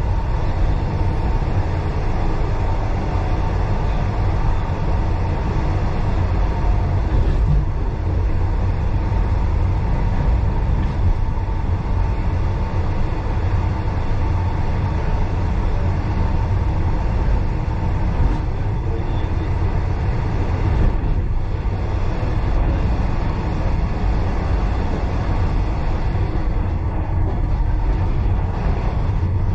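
Heritage passenger train running along the track, heard from on board: a steady rumble of carriage wheels on the rails with a faint steady whine above it.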